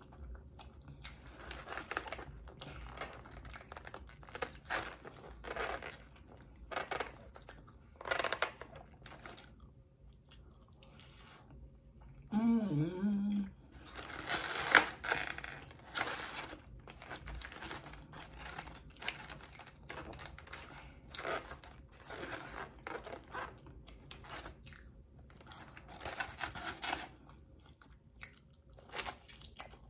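Close-miked chewing and lip-smacking of a mouthful of chicken wings and fries, in short, irregular wet smacks and crunches. A brief hum of the voice comes about twelve seconds in.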